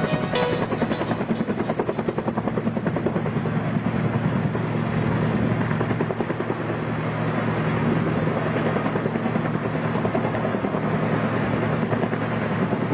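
V-22 Osprey tiltrotor's proprotors and turbine engines running, a steady rapid rotor beat.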